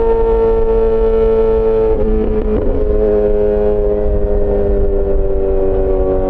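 Yamaha XJ6 S inline-four engine through an SC-Project aftermarket exhaust, heard from the rider's position, holding a steady note that slowly falls in pitch as the bike eases off. The note breaks up briefly about two seconds in.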